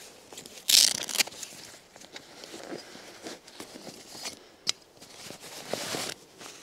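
Rustling and crunching in dry leaf litter and twigs on the forest floor, in several bursts, the loudest about a second in, with a single short sharp click near the end.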